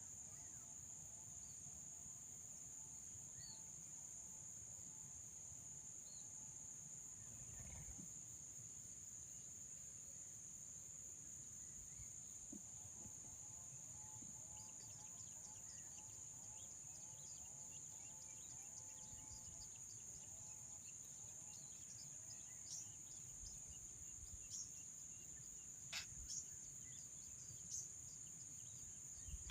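Faint outdoor ambience: a steady high-pitched insect drone, with two runs of repeated low, rising-and-falling calls from a distant animal and a scatter of short high bird chirps in the last few seconds.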